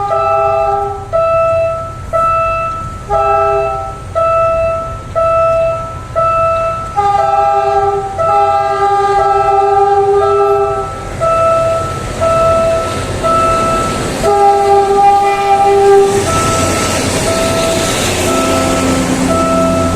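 A level-crossing warning bell rings steadily about once a second while a train horn sounds several long blasts over it. From about 16 seconds in, a train runs past with its wheels on the rails.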